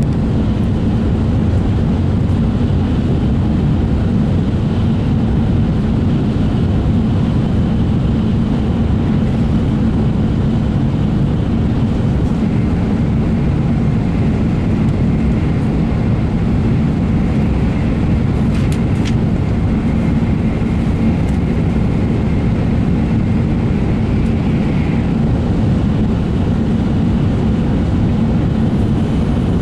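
Steady, loud running noise heard inside the passenger cabin of an N700A Shinkansen train as it travels, a deep even rumble of wheels and air. A faint high whine comes and goes in the middle.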